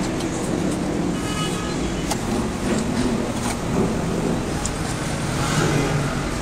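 Steady low rumble of engine noise.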